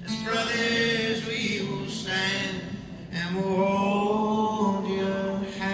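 Male singing heard live, slow drawn-out phrases with little accompaniment to be heard. The sung phrases break briefly about two seconds and three seconds in.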